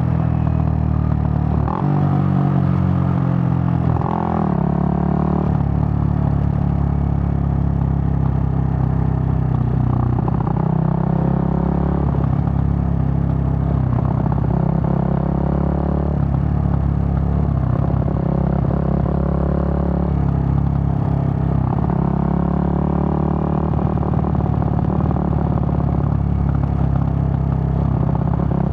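Suzuki GN125's single-cylinder four-stroke engine running under way, its note stepping up and dropping back every few seconds as the bike is ridden through the gears.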